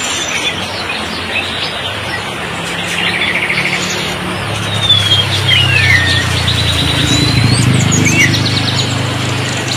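Songbirds chirping and whistling, with buzzy trills and quick swooping whistles, over the steady hiss of heavy rain. A low rumble builds up about halfway through.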